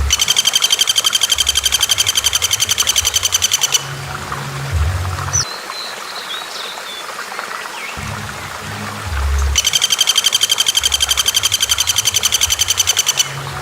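Recorded bird song: a rapid, high, evenly pulsed trill about four seconds long, given twice, with a short chirp between. A low looping music backing runs underneath.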